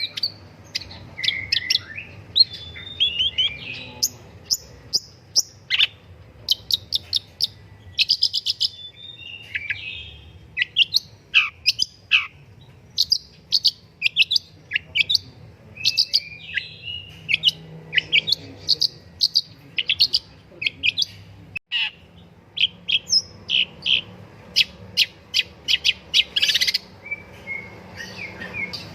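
Long-tailed shrike singing a fast, unbroken chatter of sharp chirps, down-slurred notes and rapid clicking trills, with only brief gaps.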